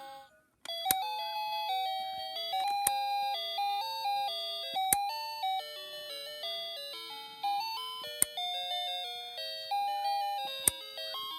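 Electronic chiming melody of bell-like notes, beginning after a brief cut-off about half a second in, with a sharp click every two to three seconds.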